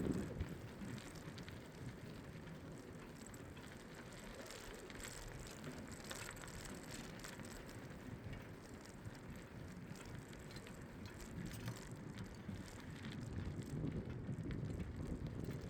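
Bicycle riding along: a steady low rumble of tyres and wind on the microphone, with scattered light ticks and clicks from the bike, growing a little louder near the end.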